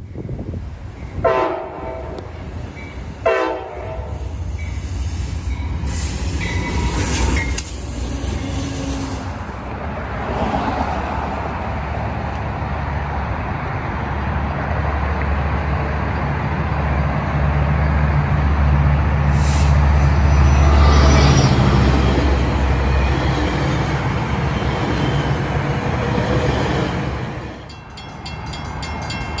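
Train horn sounding two short blasts that fall in pitch, followed by a steady low train rumble that swells to its loudest about twenty seconds in.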